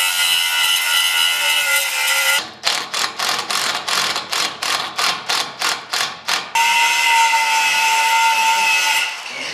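Handheld power tool motor whining at full speed, then run in short trigger bursts about three or four times a second, then run steadily again before stopping.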